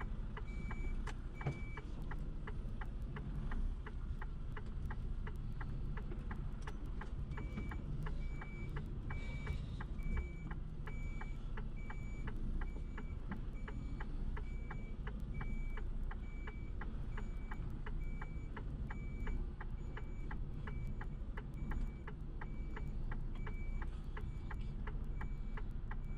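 Lorry cab interior with the engine drone underneath a steady rapid ticking about three times a second and a short high beep repeating about one and a half times a second, which stops for a few seconds early on and then resumes.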